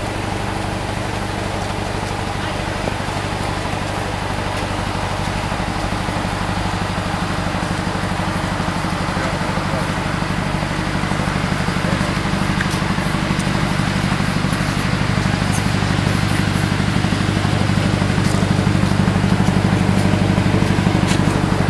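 Narrow-gauge tourist train approaching slowly on the Fin del Mundo railway: a steady low drone from its locomotive that grows gradually louder as it nears.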